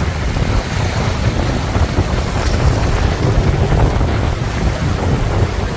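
Strong wind buffeting the microphone: a steady low rumble that rises and falls, with a faint rushing hiss over it.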